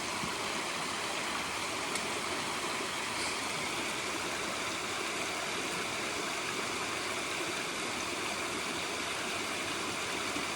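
Stream rushing over rocks: a steady, unbroken noise of running water.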